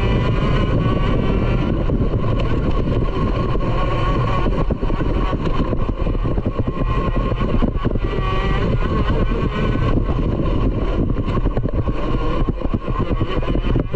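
Small motorcycle engine running steadily near idle, its pitch wavering slightly a couple of times.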